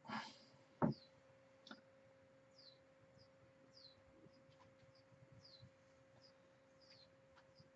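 A small bird chirping faintly and over and over, each chirp a quick high falling note, over a steady electrical hum. There is a short hiss right at the start and a sharp click just under a second in.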